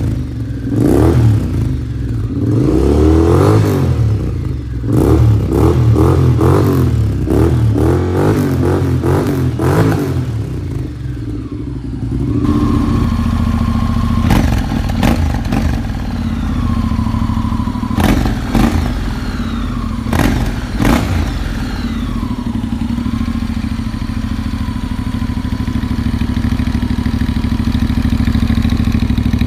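Honda X-ADV 750 parallel-twin engine revved through its exhaust in a quick series of throttle blips for about the first twelve seconds, then settling to a steady idle with a few short blips later on.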